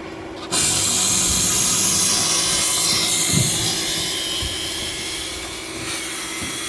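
A machine on a construction site running loudly and steadily with a strong hiss and a steady hum. It starts abruptly about half a second in.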